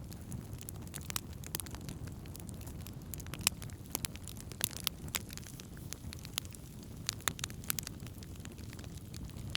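Wood campfire burning, with irregular sharp crackles and pops over a low steady rush of the flames.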